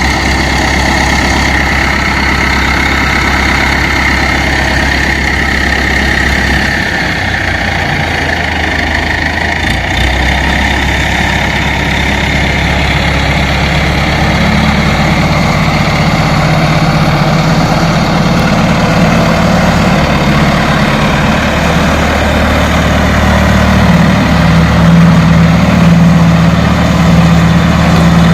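Heavy engine running at a steady idle, with a low hum that grows stronger through the second half.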